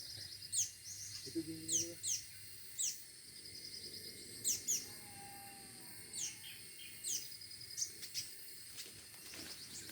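Small songbird chirping: short, sharp, high calls that sweep downward, repeated at irregular intervals, about a dozen in all.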